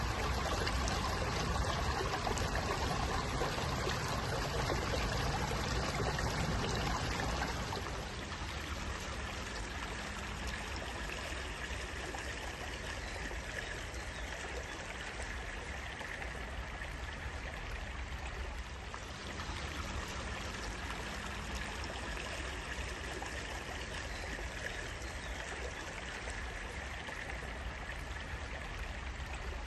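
Running water flowing and trickling steadily, like a small stream; it becomes a little quieter about seven seconds in and then stays even.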